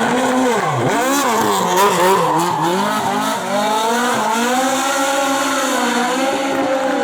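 Race car engine under hard acceleration, revs dropping sharply about a second in and then climbing again, with several rises and falls in pitch as it changes gear.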